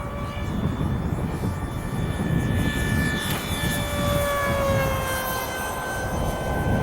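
Electric motor and propeller of an RC model plane whining in flight over low wind rumble. The pitch sags a little about two-thirds of the way through, then climbs back.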